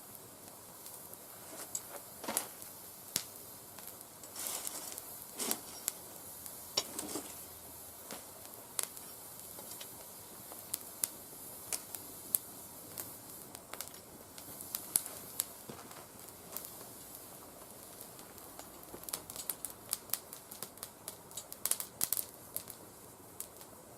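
Oak twigs burning in a mesh fire stand: a steady hiss with irregular crackles and sharp pops, which come thicker near the end. The wood was cut only months earlier and is not fully dry.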